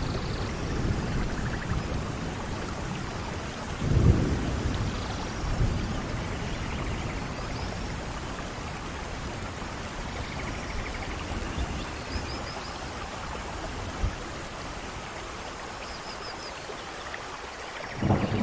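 Thunderstorm: steady heavy rain with thunder rumbling. A strong low roll comes about four seconds in, and smaller rumbles follow it.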